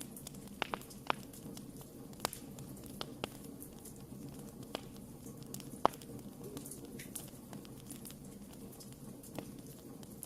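Wood fire crackling: irregular sharp pops and snaps over a steady low rush of burning, with the loudest pop about six seconds in.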